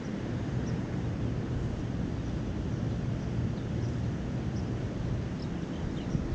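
A steady low rumble with scattered faint, short chirps of small birds, a few each second.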